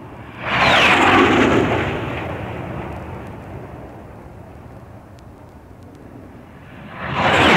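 Jet fighter planes flying low past, one after another. The first comes in suddenly about half a second in, its roar carrying a falling whine as it passes, then fades away; the second swells up near the end.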